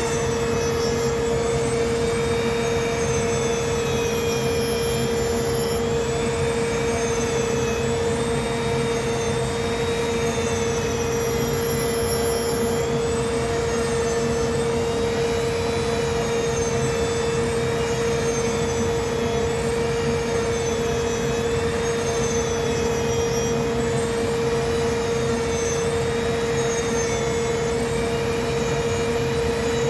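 Handheld rotary tool with a carving bit running continuously as it carves wood, a steady high whine with upper tones that waver slowly up and down.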